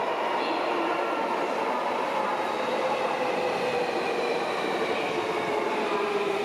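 Tokyo Metro Chiyoda Line subway train running through the station, its electric motor whine falling slowly in pitch as the train slows.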